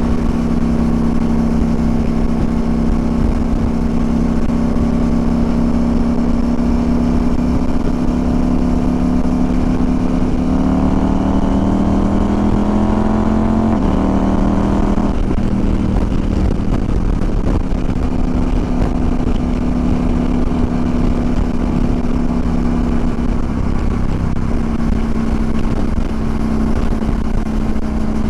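CFMOTO Ibex 800T/800MT's parallel-twin engine running at a steady cruise, with strong wind noise on the microphone. About ten seconds in, the engine note climbs as the bike accelerates, steps once through a gear change and settles back to a steady note.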